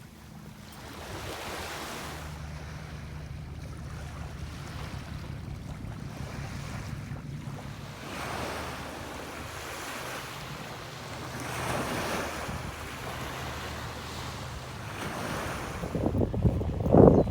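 Sea waves washing in, with wind buffeting the microphone over a steady low hum; the noise swells twice and turns much louder near the end.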